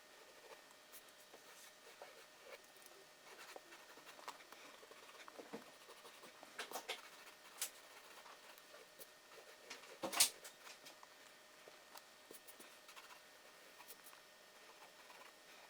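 Pencil working on paper: faint scratchy strokes and scattered light ticks, with a sharper tap about ten seconds in.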